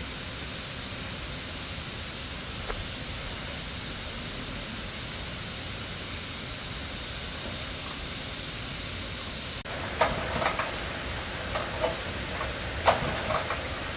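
Steady hissing noise, then a sudden change about ten seconds in to a string of sharp knocks and clinks.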